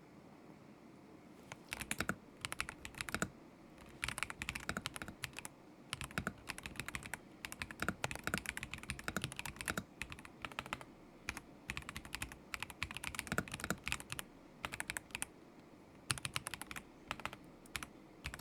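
Typing on a KZZI K75 Pro mechanical keyboard with Moment linear switches: runs of quick keystrokes broken by short pauses, starting about a second and a half in.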